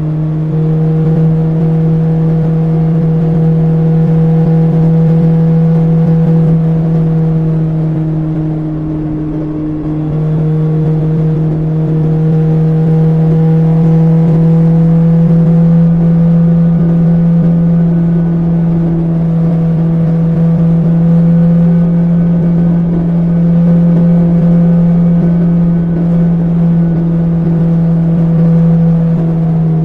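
BMW S1000XR's inline-four engine through an Akrapovic exhaust, running at steady, fairly constant revs while riding. The revs ease off slightly about a third of the way in, then build back up and hold.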